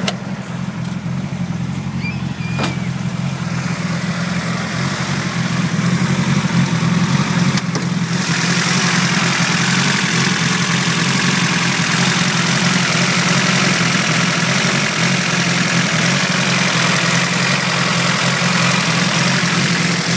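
Honda Civic Si's built DOHC VTEC four-cylinder idling steadily. About eight seconds in it grows louder and hissier, heard up close at the open engine bay.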